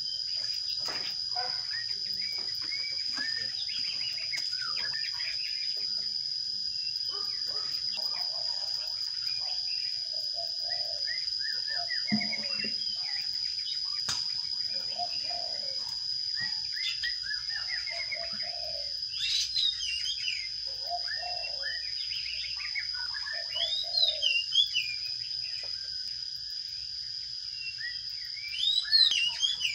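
Sparrows chirping in many short calls, with louder bursts of chirping about two-thirds of the way through and again near the end, over a steady high-pitched insect drone.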